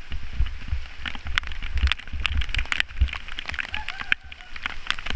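Riding a bicycle in the rain: an uneven low rumble with many sharp ticks and taps scattered through it.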